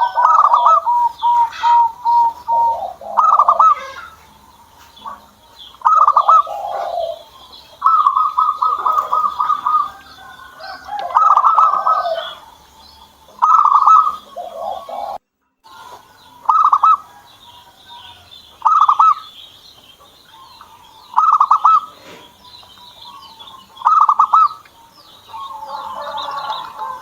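Zebra dove (perkutut) cooing: short phrases of rapid staccato coos repeated every two to three seconds, with faint high chirps of smaller birds behind. The sound cuts out for a moment a little past halfway.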